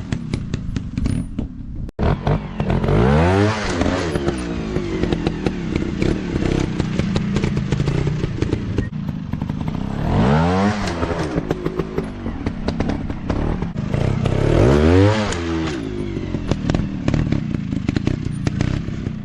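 Off-road dirt bike engines revving up hard and dropping back, in three big surges, with steady running between them and a lot of clatter and crackle over the top.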